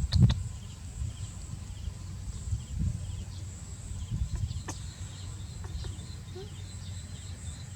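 Insects chirping steadily in small repeated pulses with a high, constant hum behind them, over low bumps and rumbles of wind or handling noise, with a few light clicks.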